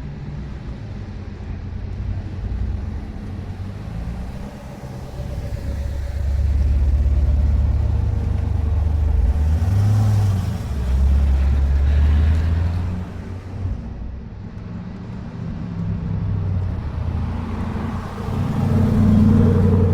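Car engines rumbling at low speed as cars drive past, louder from about six seconds in to about thirteen seconds in and again near the end.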